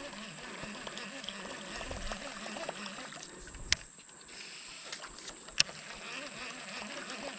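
Fast river water gurgling and trickling against a small fishing boat, likely a kayak, as it drifts with the current, with two sharp clicks or knocks about two seconds apart.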